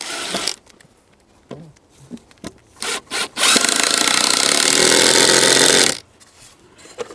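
Power tool cutting wood: a short burst at the start, two brief bursts near the middle, then a steady cut of about two and a half seconds that stops abruptly.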